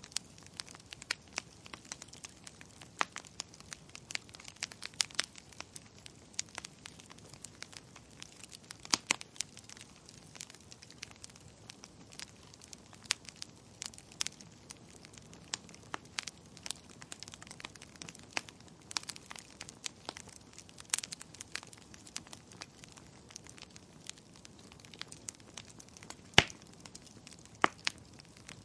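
Wood fire crackling in a fireplace: irregular sharp pops and snaps, a few of them loud, over a faint steady hiss.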